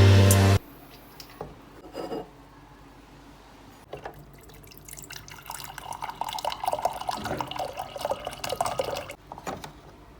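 Background music cuts off just after the start; a few small clicks follow, then water runs from a tap into a sink for about five seconds before stopping.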